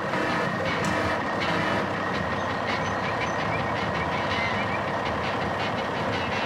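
A heavy truck's engine running steadily, with a thin steady high tone over it.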